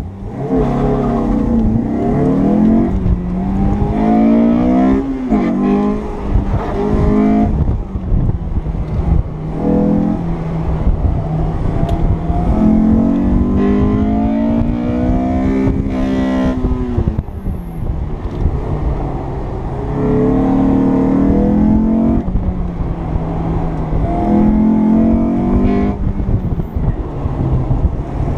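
Honda S2000's four-cylinder engine at full throttle on an autocross run, heard from inside the open-top cockpit: it launches hard at the start, then its pitch climbs and drops again and again as the driver accelerates, lifts and brakes between cones.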